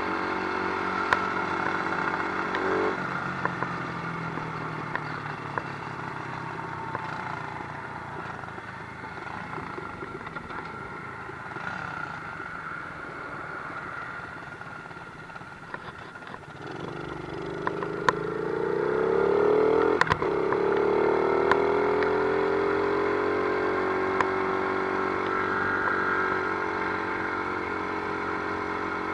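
Small 50cc dirt bike engine running under way. Its pitch drops a few seconds in and stays lower and quieter for a stretch, then it revs up again about two-thirds of the way through and holds there. Occasional sharp clicks and knocks come through.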